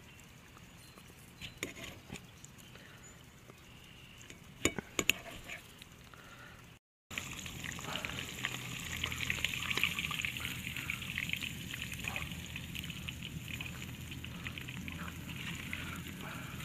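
A knife slicing a tomato on a ceramic plate, with a few sharp clicks of the blade on the plate. After a cut, catfish fillets frying in hot oil in a basket over a campfire: a steady, dense crackling sizzle.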